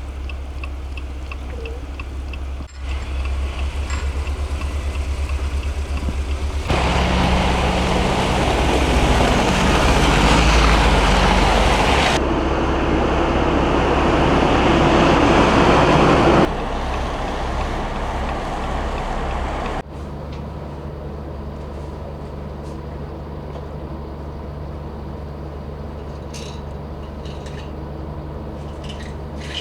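Road vehicles on a snowy highway, engines running with tyre and road noise. The sound changes abruptly several times, with a louder, noisier stretch in the middle.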